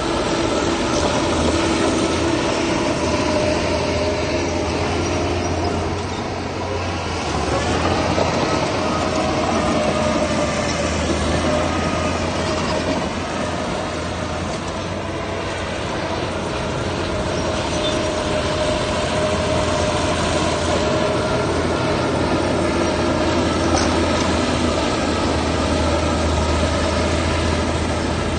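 Heavy earthmoving machine's diesel engine running under load, a continuous drone whose pitch climbs about seven seconds in.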